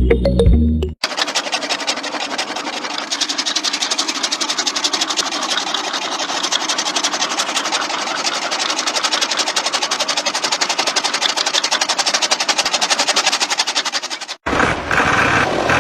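Small electric motor of a toy-sized DIY tractor running steadily with a fast, even rattle. It starts about a second in and cuts off near the end.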